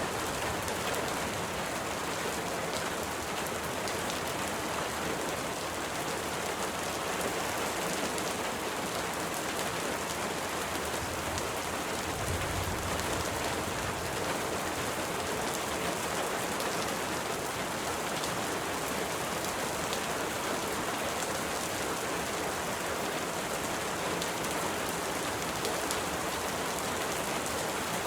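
Steady rain falling, an even dense hiss with fine patter of drops. About halfway through there is a brief low swell.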